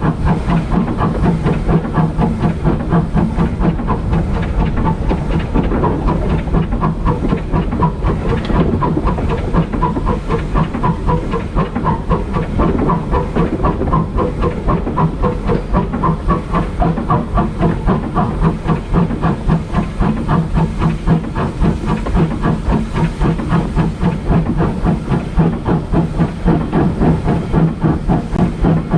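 Steam locomotive working steadily under way, its exhaust beating in an even rhythmic chuff over a constant hiss of steam.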